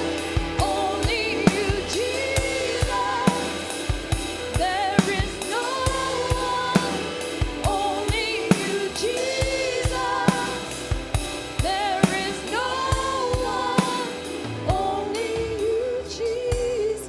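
Gospel worship song: voices singing a melody over a band with a drum kit keeping a steady beat.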